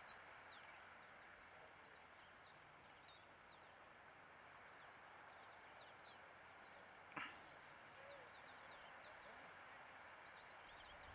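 Faint outdoor ambience with many short, high, falling bird chirps scattered throughout, and a single sharp click about seven seconds in.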